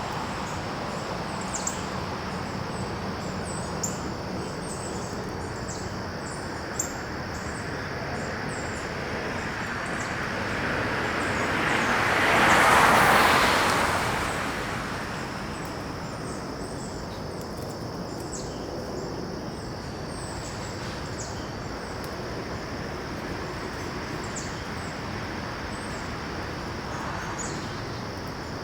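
A vehicle passing on a nearby road, swelling to its loudest about halfway through and then fading away. Under it runs a steady high insect drone, with scattered short bird chirps throughout.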